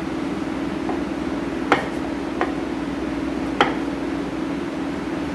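Knife trimming the crusts off bread slices, the blade knocking sharply against the cutting surface three times. A steady low hum runs underneath.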